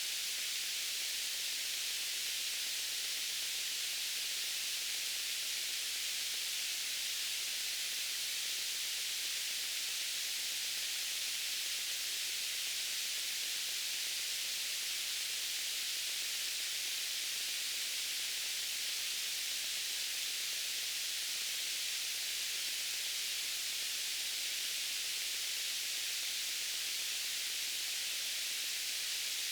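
White noise: a steady, even hiss, strongest in the upper range, unchanging throughout.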